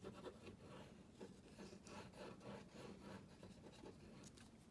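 Faint, irregular rubbing strokes of paper being glued down and rubbed flat by hand, with a slightly louder stroke at the start.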